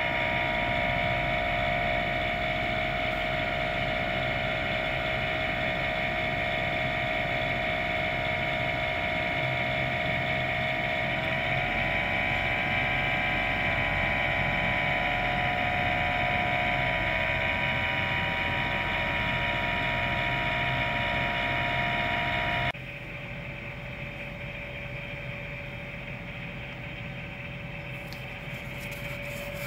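Daikin air-conditioner outdoor unit running, its fan motor giving a steady high-pitched squeal over a low hum. The squeal is the fault that the owner traced to wear in the fan motor. About two-thirds of the way in it drops abruptly to a quieter hum.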